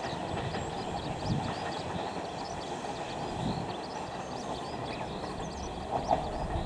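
Kintetsu electric train running along the track, a steady rumble with a few low knocks from the wheels. Birds chirp high above it.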